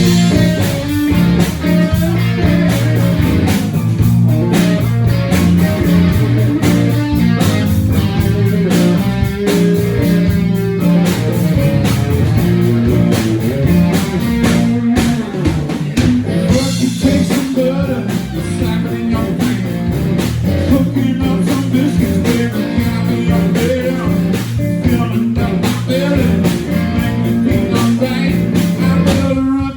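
Live blues-rock band playing, with guitar to the fore over a strong bass line.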